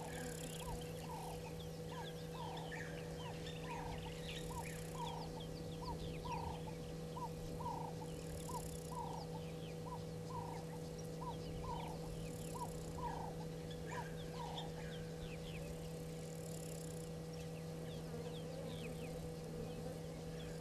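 Wild birds calling: one bird repeats a short falling note about twice a second and stops about fourteen seconds in, while other birds chirp higher and more sparsely. A steady low electrical hum runs underneath.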